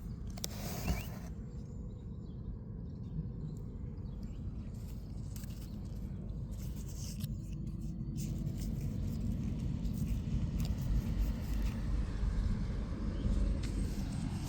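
A low, steady rumble that grows louder in the second half, with a short sharp click about a second in.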